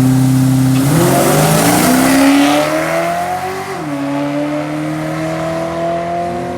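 A drag car launching and accelerating hard down the strip: the engine holds a steady note for about a second, then climbs in revs, drops once on an upshift past the middle and climbs again. It is taken for a motor pass, run without nitrous.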